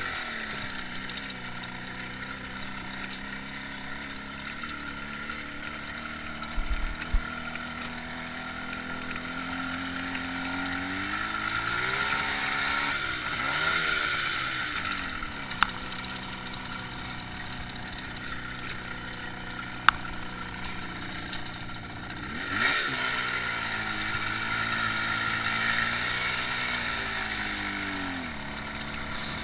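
IZh Jupiter 5 motorcycle's two-stroke twin-cylinder engine running under way. The revs climb and then drop sharply twice, about halfway through and again after about two thirds, with a few sharp clicks in between.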